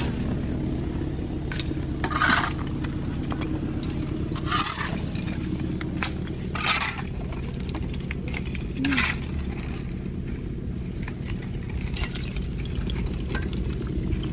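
Demolition work on a brick building: hard, clinking impacts on brick and rubble about every two seconds, over a steady low hum.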